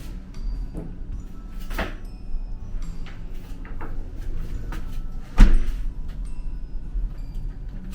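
A door shutting: a light knock about two seconds in, then a sharp loud bang about five and a half seconds in, over a steady low hum.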